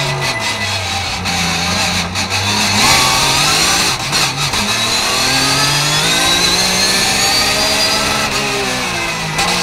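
Porsche 991 GT3 Cup Gen. II's four-litre flat-six racing engine, heard from inside the cockpit. It runs low through a slow hairpin in first gear, shifts up to second, and climbs steadily in pitch under full throttle for several seconds. Near the end the revs fall away as it lifts off.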